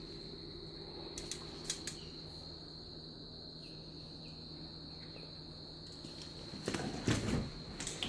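Crickets trilling steadily in one unbroken high tone over a low hum, with a few sharp clicks early on. About seven seconds in, louder rustling and knocking sounds come over it.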